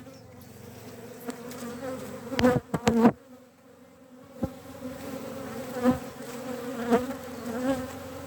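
Honeybees buzzing steadily around an open hive during a frame inspection. A few loud knocks come about two and a half to three seconds in.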